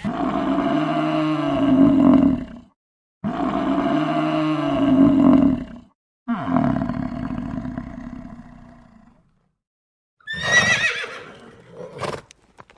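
Farm animals calling: three long, drawn-out calls with short pauses between them, then a short, high, wavering whinny-like call about ten seconds in.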